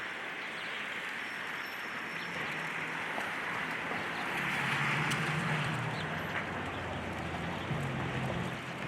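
Demolition excavator's diesel engine running under load. Its low hum swells from about four seconds in and eases off near the end, over a steady hiss.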